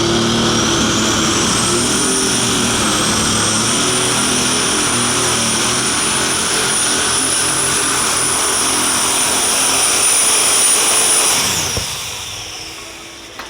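Minneapolis Moline unlimited super stock pulling tractor running flat out down the track, its engine noise topped by a high turbocharger whine. The whine climbs over the first two seconds and holds steady. Near the end it drops away and the sound fades as the run ends.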